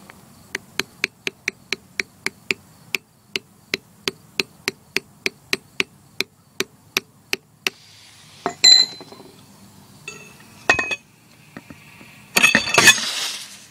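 A steady run of sharp clicks, about four a second, for roughly seven seconds, then a few scattered knocks. Near the end comes a loud rushing burst of about a second as the homemade CO2 rocket launcher fires.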